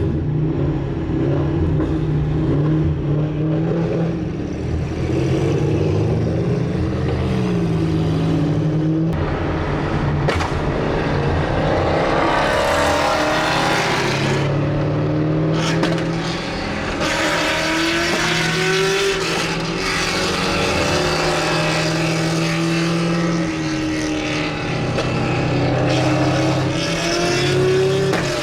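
Car engines running and revving, their pitch rising and falling, as cars drive past, with bursts of hissing noise partway through.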